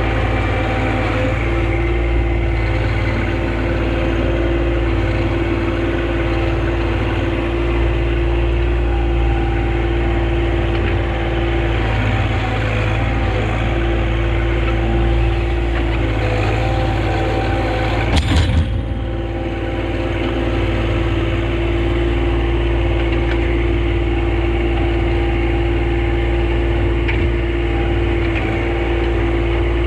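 Small John Deere compact tractor's engine running steadily under work. About 18 seconds in there is a single loud knock with a brief clatter.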